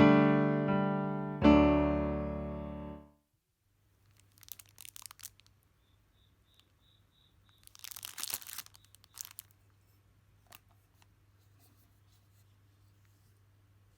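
Piano chords struck and left to ring out, stopping about three seconds in. Then a faint low hum, with two short bursts of rustling noise and a run of four faint high beeps between them.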